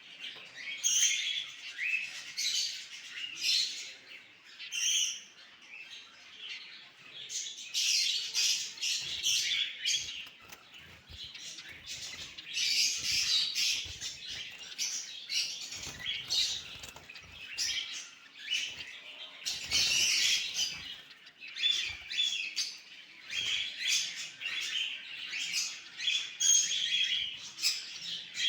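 Cockatiels, adults and their chicks, chirping and squawking almost without pause, many calls overlapping in louder clusters.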